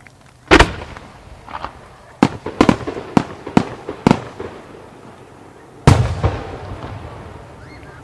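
Aerial firework shells bursting in a starmine barrage: a series of sharp bangs. A loud one comes about half a second in, then a quick run of about six, and a last loud bang near six seconds that rolls away in a long echo.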